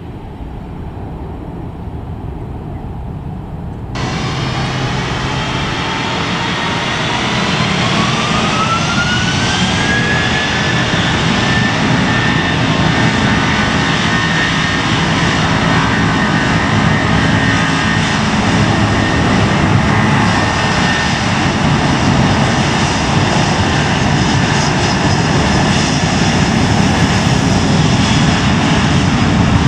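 Airbus A330-300's Pratt & Whitney PW4000 turbofans spooling up for takeoff, heard close: a whine rises steeply for a few seconds, then holds at a high steady pitch over a heavy, growing rumble as the jet reaches takeoff power. For the first few seconds, before a sudden cut, a quieter, more distant jet rumble is heard.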